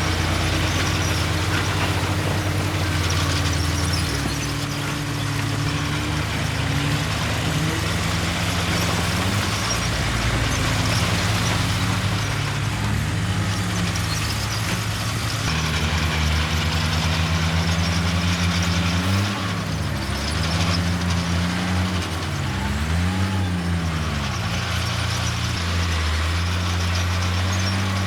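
Heavy diesel earthmoving engines running, with one engine revving up and back down several times, mostly in the second half.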